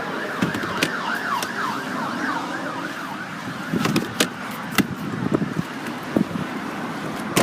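An emergency-vehicle siren in yelp mode, its pitch sweeping rapidly up and down, heard over street noise for the first few seconds. After that come several sharp clicks and knocks, from the car's rear seats being handled and folded down.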